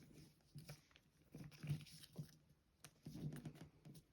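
Faint crinkling and rustling of a square of origami paper being folded and creased by hand, in a few short spells with small clicks between.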